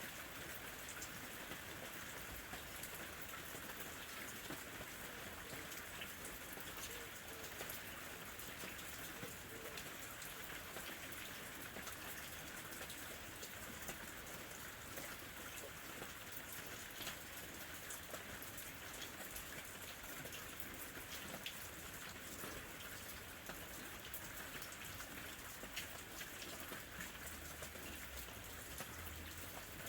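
Steady rain falling, with many fine drop patters on a surface.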